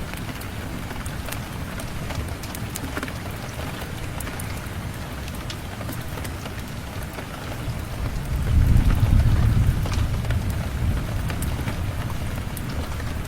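Steady rain with scattered sharp drips, and a low roll of thunder that swells about eight seconds in and slowly fades.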